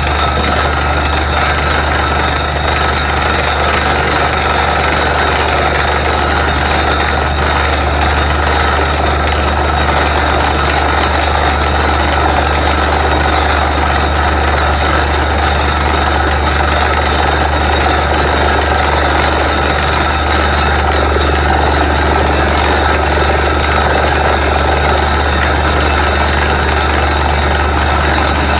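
Borewell drilling rig's heavy diesel engine running steadily under load, a loud, even low drone with constant machine noise over it.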